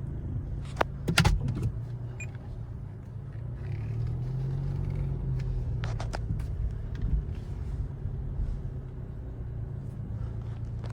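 Nissan car engine running steadily, its pitch lifting slightly about four seconds in, with a few sharp clicks about a second in.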